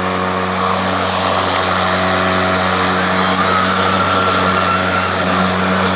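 EGO 56-volt self-propelled electric lawn mower running steadily, a constant low hum with a whirring rush from the spinning blade.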